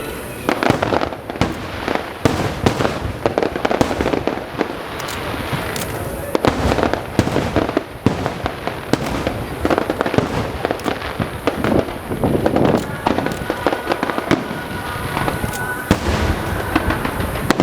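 Aerial fireworks bursting in rapid, irregular succession, sharp bangs mixed with crackling, throughout with no pause.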